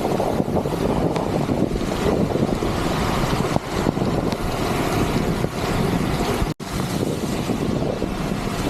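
Steady wind buffeting on the microphone mixed with heavy rain and wet-road noise while riding, with a momentary dropout a little past halfway.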